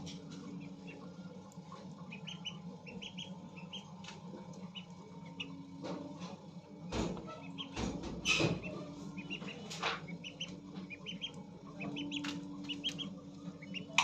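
Pet birds chirping in many short calls, with a few louder rustles or flaps around the middle, over a steady low hum.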